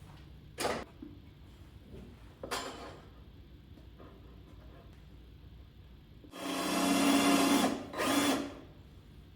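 A power drill running in a burst of about a second and a half, then a short second burst, as it drives into wood. Two knocks come first, one and then another a couple of seconds later.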